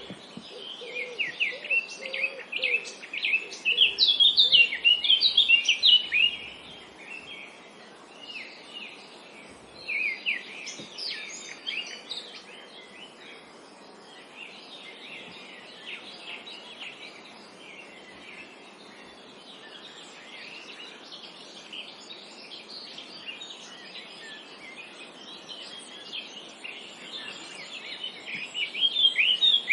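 Several small songbirds chirping and singing in quick overlapping calls, over a steady faint background hiss. The chirping is busiest and loudest in the first six seconds and again near the end, thinner in between.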